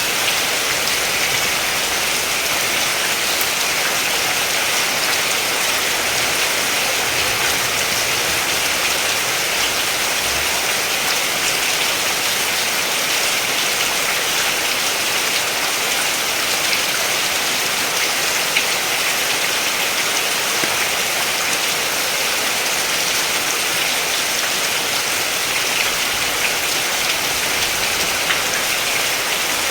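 Steady rain falling, an even hiss with fine drop ticks on a hard surface.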